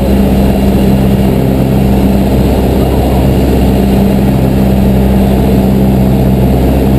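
Cessna 172's piston engine and propeller droning steadily at cruise, heard from inside the cabin.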